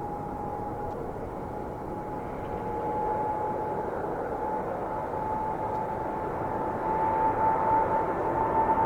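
Boeing 787 airliner's jet engines at takeoff power: a steady whine over a broad rushing noise, pitch creeping slightly upward and growing louder toward the end.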